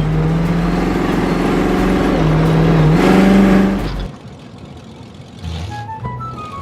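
Monster truck engine running hard, its pitch rising as it revs up about three seconds in, then dropping away sharply about four seconds in.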